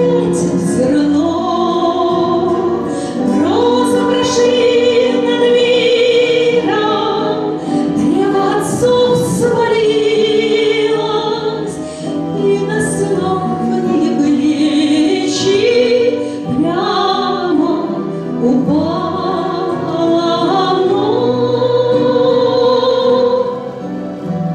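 A woman singing a song over musical accompaniment, holding long notes.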